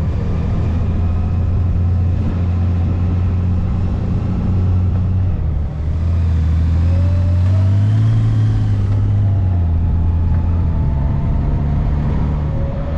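Honda Gold Wing GL1800's flat-six engine running under way. The pitch rises about six seconds in and eases back after about nine, as the bike picks up speed and then settles.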